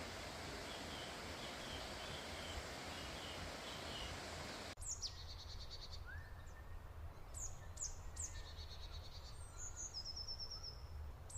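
A steady rushing noise with faint chirps, then, after an abrupt cut about five seconds in, small birds singing: several calls, each a quick high downward sweep followed by a rapid trill.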